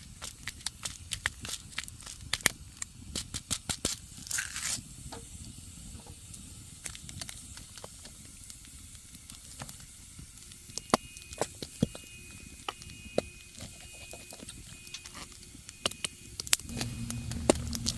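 Wood fire crackling, with irregular sharp pops and a short hiss about four seconds in. A low, steady hum comes in near the end.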